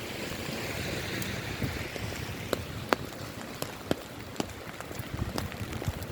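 Rain falling, a steady hiss with heavy drops landing in sharp, irregular taps, several a second in the second half. A broader hiss swells and fades over the first two seconds.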